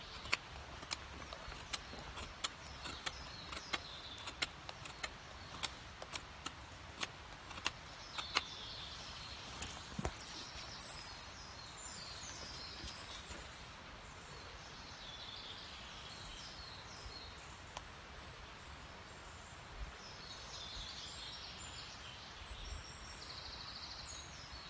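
Small birds chirping and warbling in woodland. During the first nine seconds there is an irregular run of sharp cracks or knocks, about one or two a second, that then stop.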